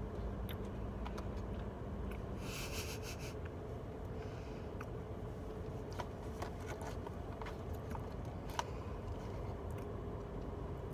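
A person chewing food quietly, with small scattered mouth clicks, over the steady low hum of a car interior. A brief hiss comes about two and a half seconds in.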